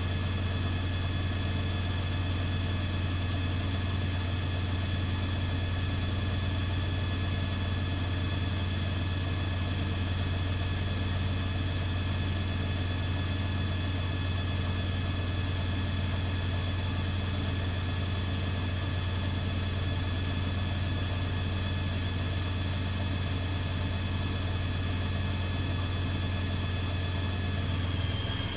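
ATLANT 70C1010 washing machine spinning at a steady speed: a constant low hum with high motor whines. Near the end the whines begin to fall in pitch as the drum starts to slow down.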